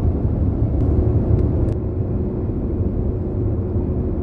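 Steady low rumble of a car driving at highway speed, heard from inside the cabin, with a faint steady hum and a couple of light clicks about a second in.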